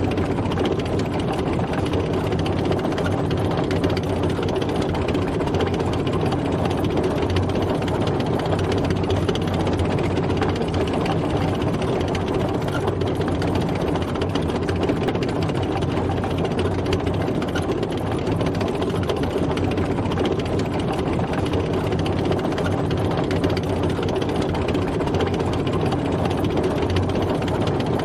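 Military tank driving, its engine running steadily with a dense mechanical rattle.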